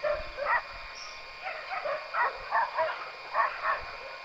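Dog barking repeatedly, about ten short barks.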